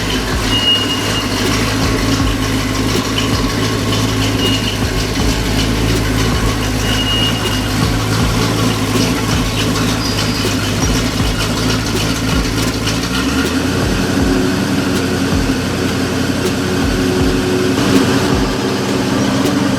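Vehicle engine running steadily at idle. Its low note changes about two-thirds of the way through.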